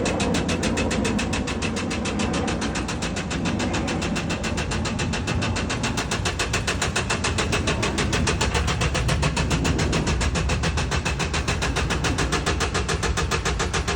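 Mercedes Sprinter engine running with a rapid, even knock that keeps time with the engine, a sign of an internal engine fault.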